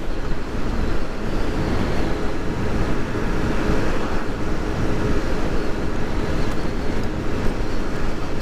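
Scooter engine running at wide-open throttle but misfiring, jerking and spluttering without power, over steady road noise.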